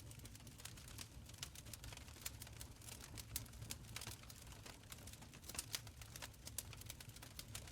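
Wood fire crackling in a stone fireplace: many small sharp pops and snaps at irregular intervals over a soft low rumble of the flames.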